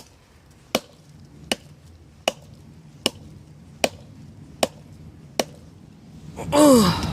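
Hatchet chopping into a hard dead log: eight sharp, evenly spaced strikes a little under a second apart. The hatchet's edge is chipped and the wood is very hard. A man's voice breaks in briefly near the end.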